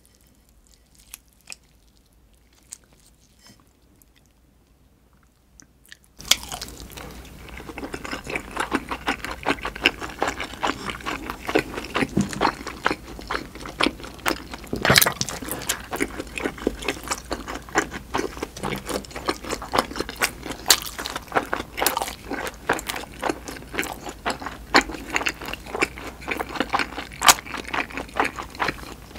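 A person chewing dumplings with wet mouth sounds and crunches. The first few seconds are nearly quiet with a few faint clicks; about six seconds in, steady chewing starts, full of sharp clicks.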